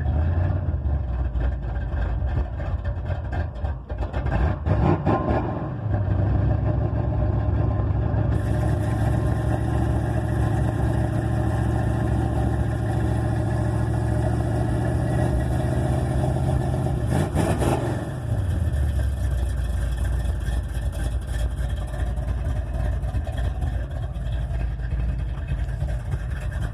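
Small-block Chevy V8 in a 1986 Monte Carlo SS, still cold after a cold start in freezing weather and not yet holding idle, running through dual straight pipes and Flowmaster-style Flowpro turbo mufflers dumped at the axle. It is revved briefly about five seconds in, holds a higher steady speed, gets another quick blip near eighteen seconds, and then drops back to a lower idle.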